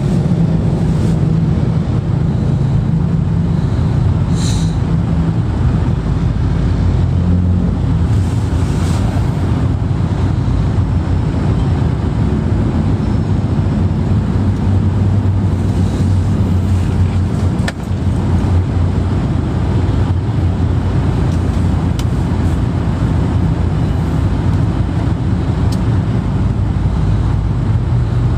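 Steady low rumble of a car driving, with a brief click about 18 seconds in.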